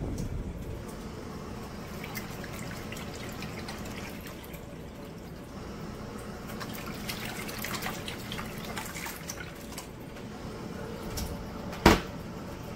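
Water running and splashing in the tub of a Krib Bling portable washing machine, with small clicks and drips throughout. A single sharp knock sounds near the end.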